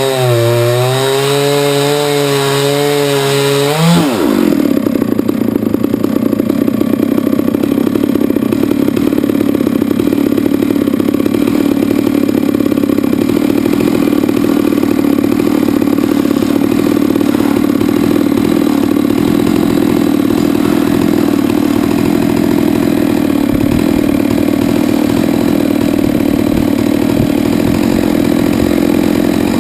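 Chainsaw mill cutting a hard maple log, the saw's engine running flat out with a wavering pitch. About four seconds in, its pitch drops sharply and it runs on at a steady, lower, rougher note through the cut.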